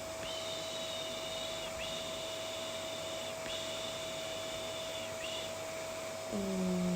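Vacuum cleaner running steadily, with a high whistling tone held in three long stretches and a short fourth, each separated by a brief dip.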